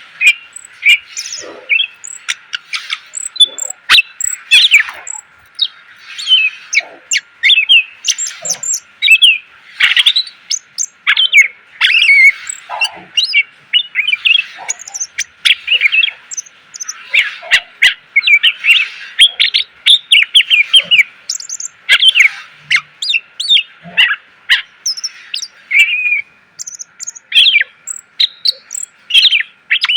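Cucak ijo (green leafbird) singing a long unbroken song of rapid chirps, whistled notes and quick sweeping phrases, packed with varied mimicked fill-in phrases.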